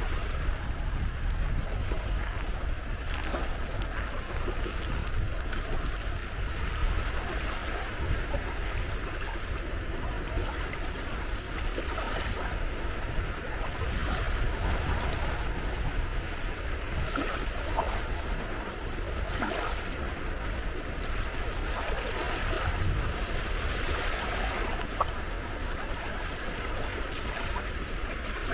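Sea waves washing on the shore in a steady wash, with wind buffeting the microphone as a low rumble.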